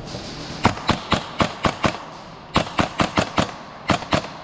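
Airsoft gun firing semi-auto in three quick strings of sharp cracks, about four or five shots a second: six, then five, then three near the end.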